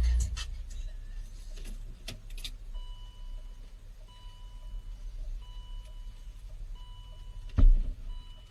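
Repeated electronic warning beeps, each about a second long with short gaps between, over a low vehicle rumble. A heavy low thump comes near the end, with a few knocks and clicks earlier.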